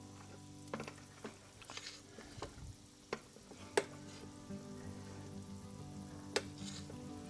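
A spoon stirring a thick Alfredo cream sauce in a pan, with sharp clinks of the spoon against the pan now and then.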